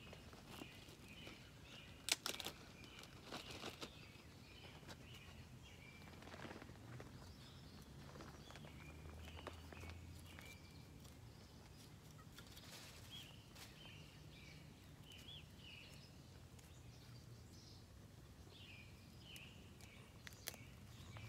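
Quiet outdoor ambience: small birds chirping again and again in the background over a low steady hum, with a few sharp clicks about two seconds in and again a second or so later as twigs are handled.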